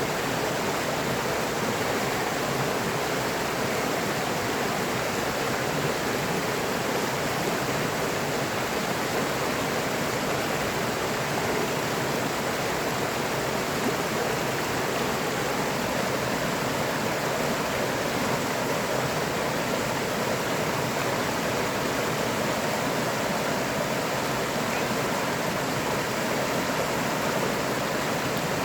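A river flowing steadily: a continuous, even rush of running water with no breaks or separate events.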